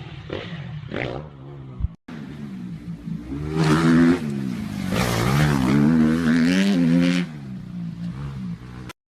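Motocross bike engines revving up and down, the pitch rising and falling with the throttle. The sound breaks off abruptly about two seconds in, then returns louder from about three and a half to seven seconds before dropping back.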